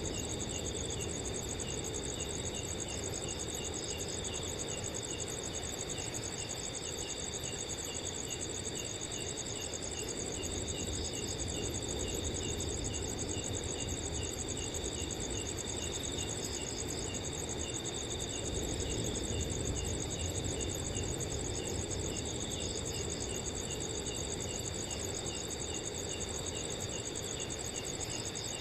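Several crickets chirping together at different pitches: one in quick regular chirps, one in a continuous high trill, and others in short intermittent bursts. Beneath them runs a low steady rush of wind.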